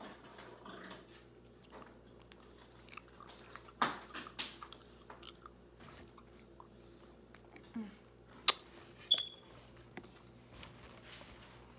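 Close-up chewing of a mochi ice cream with its chewy, sticky rice-dough skin. A few sharp clicks stand out about four seconds in and again around eight to nine seconds in.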